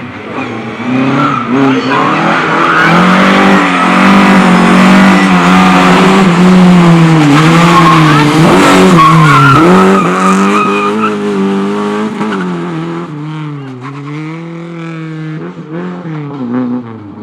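Race car engine revving up and down with tyres squealing as the car slides through the course. The car is loudest in the middle, then fades as it moves away.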